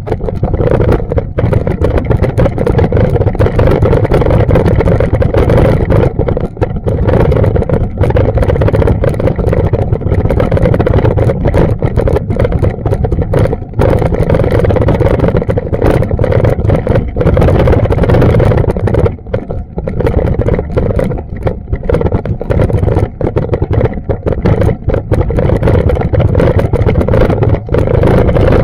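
Wind buffeting a small action camera's microphone: a loud, continuous low rumble that flutters with many brief dropouts.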